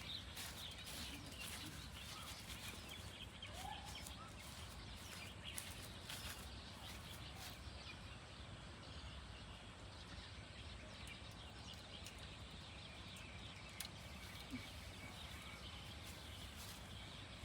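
Faint outdoor ambience with chickens clucking now and then and a couple of light knocks.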